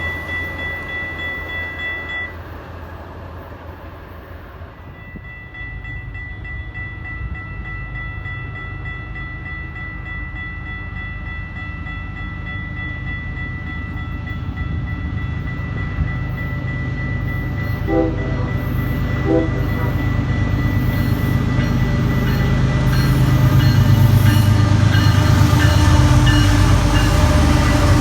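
A train approaching, its low rumble growing steadily louder through the second half, with two short horn notes about two-thirds of the way in. A steady high ringing tone runs through most of it, broken for a couple of seconds early on.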